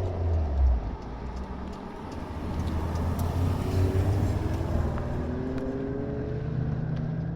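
A car's engine rumbling at low speed as it drives in, getting louder about two seconds in, with its note rising slowly in the middle.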